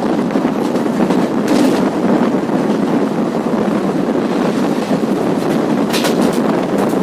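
Passenger express train running along the track, heard from on board: a steady rumble of wheels on rail mixed with wind buffeting the microphone. A brief sharper clatter comes about one and a half seconds in and again near the end.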